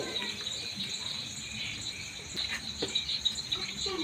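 Crickets chirping in a steady, high-pitched chorus, with a few faint clicks.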